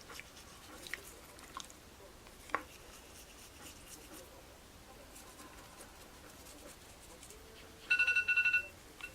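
Scattered faint clicks and small scrapes, then near the end a loud, rapid run of high electronic beeps lasting under a second.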